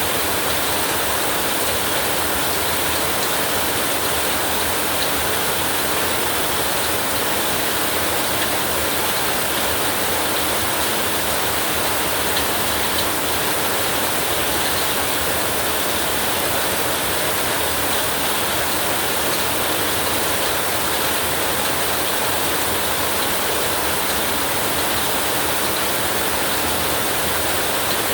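Heavy rain falling steadily, a dense, even hiss that holds at the same level throughout.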